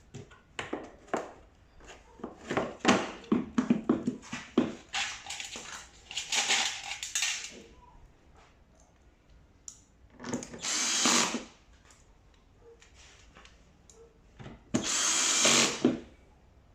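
A power screwdriver drives screws into tumble dryer panels in three short runs of about a second each, after a string of knocks and clatter from parts being handled.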